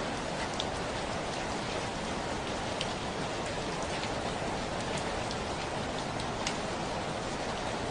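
Steady rainfall, an even hiss with scattered individual drops ticking close by.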